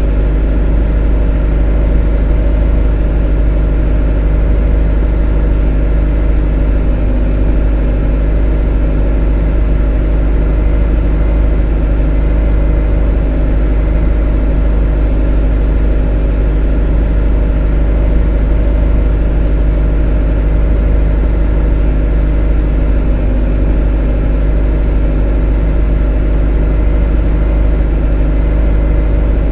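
A motor running at a steady speed: a continuous, even drone with a strong low hum and several steady tones above it, unchanging throughout.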